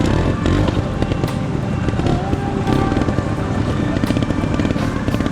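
Trials motorcycle engine running and revving, mixed with background music.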